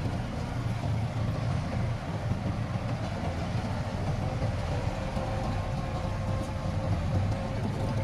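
Heavy diesel engine of earthmoving equipment running steadily, a low, even drone with a faint whine above it.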